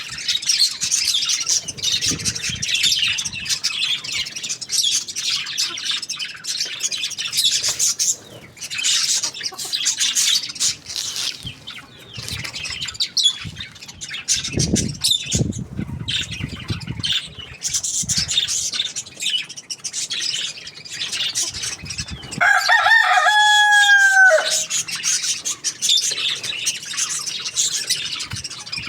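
A rooster crows once, about two thirds of the way in, a single call of about two seconds that is the loudest sound here. Throughout, a flock of birds keeps up a constant high chirping and squawking.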